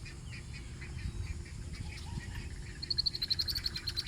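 A small bird sings a fast run of high, evenly repeated chirps, about eight a second, starting nearly three seconds in, over a low steady rumble.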